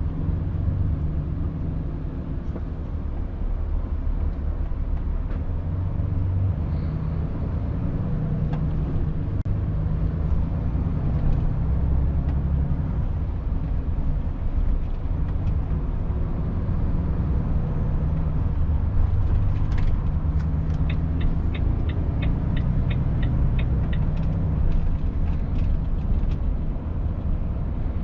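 Cab-interior engine and road rumble of a Volvo FH 500 truck's 13-litre straight-six diesel while driving. About two-thirds of the way through, a run of even ticks, about three a second, lasts some three seconds, with a few scattered clicks around it.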